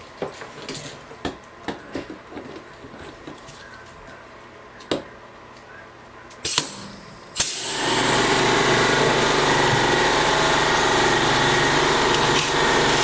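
Air compressor motor starting up about seven seconds in and then running steadily and loudly. Before it, a few scattered clicks and knocks from handling.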